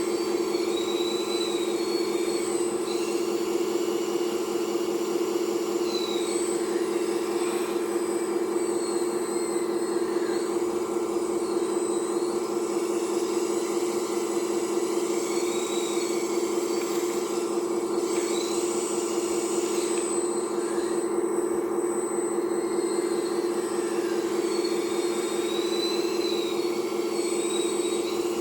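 RC hydraulic scale excavator's pump running with a steady, even hum, with fainter high whines rising and falling every few seconds as the hydraulics are worked.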